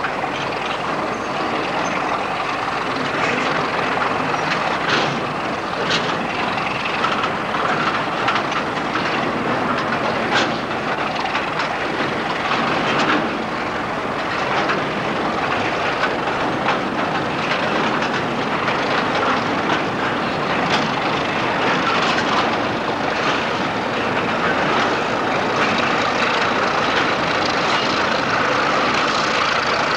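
Freight train of hopper wagons rolling slowly, hauled by two Class 31 diesel locomotives, with irregular clicks and knocks from the wagon wheels and couplings. The locomotives' engines grow slightly louder near the end as they draw close, with a steady whine rising over the rumble.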